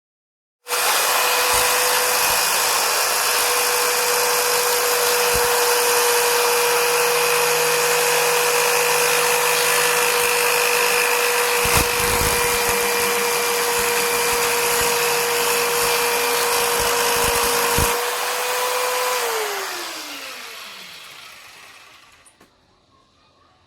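An electric power tool motor starts just under a second in and runs at one steady speed. It is switched off about eighteen seconds in and winds down, its pitch falling away over a few seconds, with a couple of knocks along the way.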